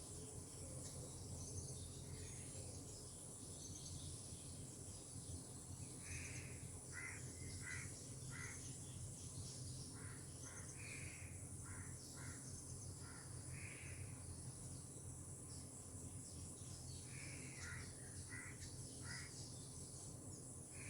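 Birds calling in groups of short, repeated calls over a steady, high-pitched drone of insects.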